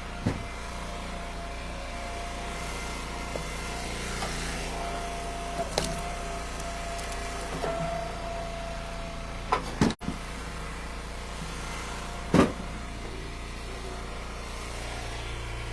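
Eastonmade Ultra log splitter's engine running steadily as ash rounds are split, with four or five sharp knocks of splitting and handled wood, the loudest about two-thirds of the way through.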